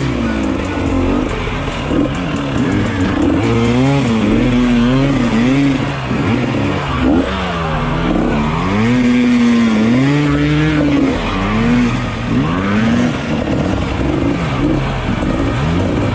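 Dirt bike engine revving up and down over and over, its pitch rising and falling about once a second with no let-up.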